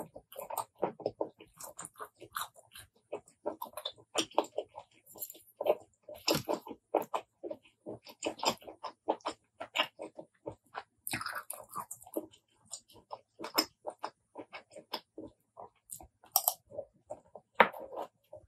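Close-miked eating sounds of apple snail salad being chewed: a quick, irregular string of wet mouth smacks, squelches and small clicks.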